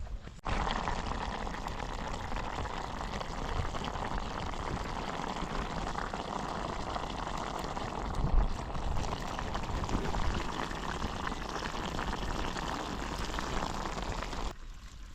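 Steady rushing, bubbling water sound that starts abruptly about half a second in and cuts off suddenly near the end.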